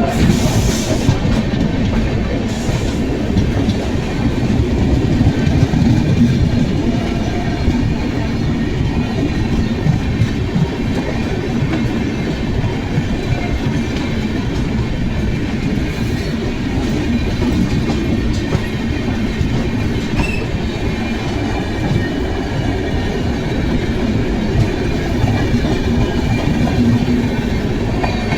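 Amrit Bharat Express passenger train running between stations: a steady rumble of wheels on the track, with occasional clacks from the rail joints.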